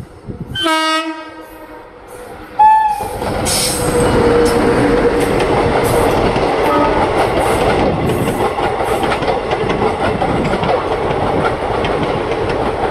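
Shalimar Express (18029) sounding two short horn blasts, the second higher, in the first three seconds. Then the train passes close by at speed with a loud, steady rush and rapid clickety-clack of the coaches' wheels over the rail joints.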